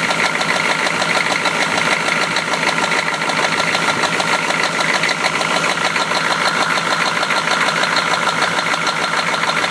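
1993 Chevrolet engine idling with a rapid, even knock running through it: rod knock, the sign of a worn connecting-rod bearing.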